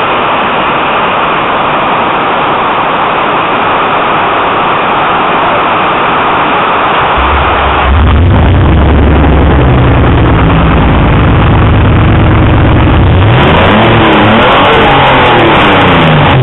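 Heavy rain drumming on a metal roof as a steady hiss, then about seven seconds in the VQ35DE 3.5-litre V6 in a Nissan 240SX is heard running loudly through open tube headers with no exhaust. Near the end it is revved up and down a few times.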